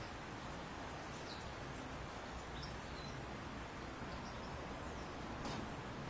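Steady outdoor background hiss with a few faint, short high bird chirps scattered through it, and a single sharp click about five and a half seconds in.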